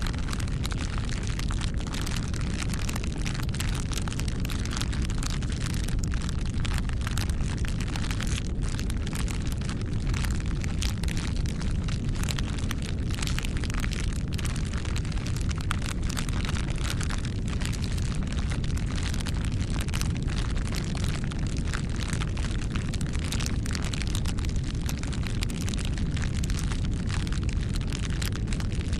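Wood fire burning with a steady low rumble and dense, irregular crackles and pops throughout.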